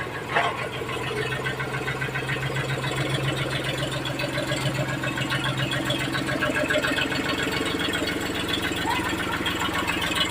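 Tractor diesel engine running steadily with a fast, even clatter, as the tractor is driven on test. A short sharp knock comes about half a second in.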